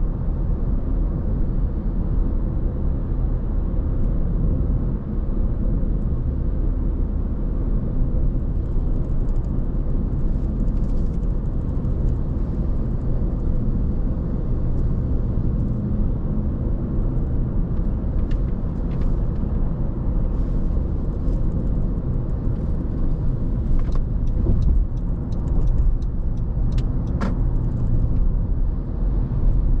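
A car driving at a steady pace: a continuous low rumble of road and engine noise. A few short clicks come in the last third.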